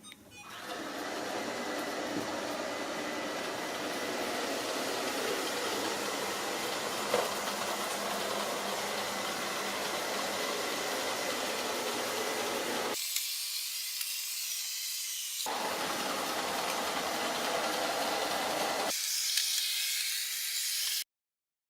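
Ilife V5s Pro robot vacuum running: a steady hissing whir from its suction fan and brushes, with a faint steady high tone. Twice the lower part of the sound drops away for a few seconds, leaving only the high hiss, and it cuts off suddenly near the end.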